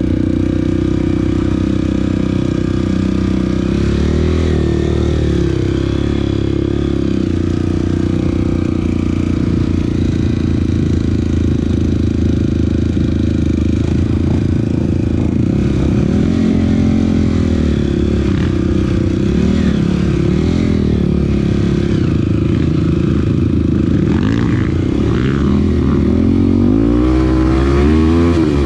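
Off-road vehicle engine running under way on a trail, its pitch rising and falling with the throttle in the second half.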